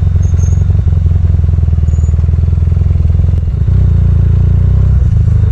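Benelli TNT 300's parallel-twin engine running through a Yoshimura exhaust on the moving motorcycle, a steady low exhaust note. Its note dips and changes briefly about three and a half seconds in.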